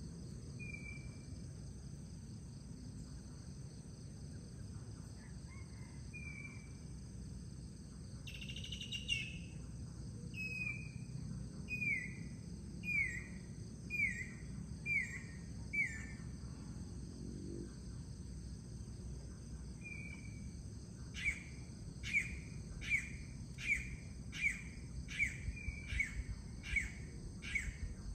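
Predawn outdoor ambience: a bird calls in a series of short downward-sliding notes, about one a second, then a faster run of about a dozen notes near the end, over a steady high-pitched insect drone and a low background rumble.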